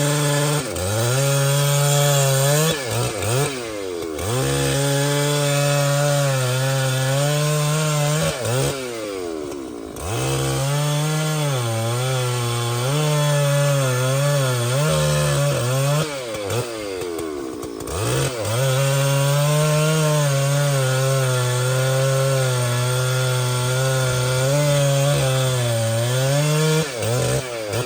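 Large chainsaw held at full throttle cutting through a trembesi trunk, its engine pitch held down under load in the wood. Several times the throttle eases and the pitch drops and climbs back up before the saw bears down again.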